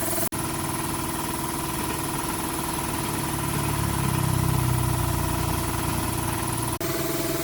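A 110cc motorbike engine idling steadily, swelling a little in the low end about halfway through. The sound drops out abruptly for an instant twice, near the start and near the end.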